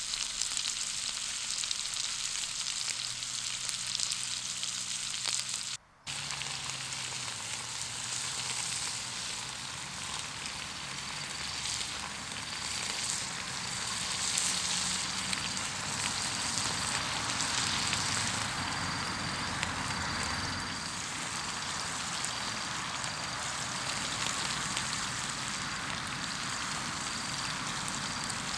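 Food sizzling and frying in a pan as a steady hiss. It breaks off briefly about six seconds in.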